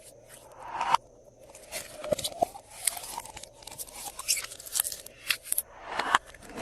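Glossy slime being squished and folded by hand: a run of sticky clicks and crackling pops, with two swelling squelches that each cut off sharply, about a second in and near the end.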